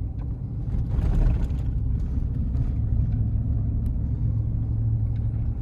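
Pickup truck driving slowly, a steady low engine and road rumble with tyres crunching over a rough campground road.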